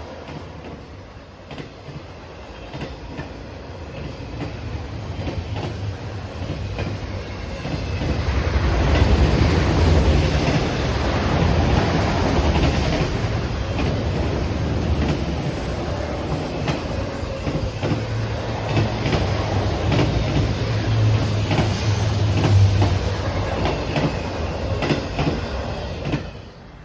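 A train passing close by: its rumble builds over the first several seconds, then holds loud and steady with a running clickety-clack of wheels over rail joints. It cuts off suddenly at the end.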